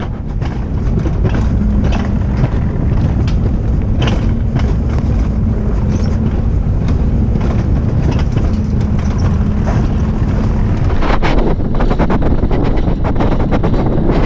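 Low, steady rumble of a moving vehicle, with a hum that comes and goes and scattered knocks and rattles.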